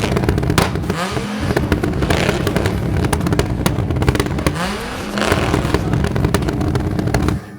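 A car engine revved hard about three times, each rev rising in pitch, with crackling and popping from the exhaust throughout; the sound drops away suddenly near the end.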